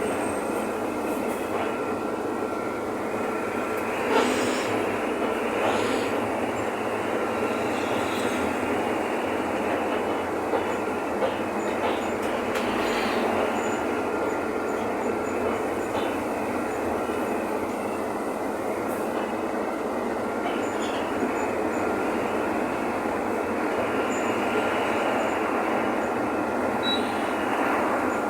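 Steady running noise heard inside a Mercedes-Benz OF-1519 city bus on the move, its diesel engine and the road rumbling evenly, with a faint steady whine and a few short rattles; the sharpest rattle comes about four seconds in.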